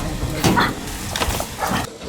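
A few short animal calls, one after another.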